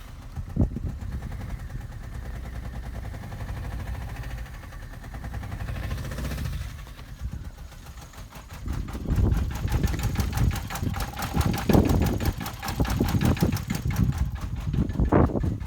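Vauxhall Corsa C 1.2 Twinport four-cylinder petrol engine running rough: a sharp knock about half a second in, then, from about halfway through, uneven surges and loud peaks over the running. It is misfiring, with codes for random misfire and misfires on cylinders 3 and 4, and a new coil pack and spark plugs have not cured it.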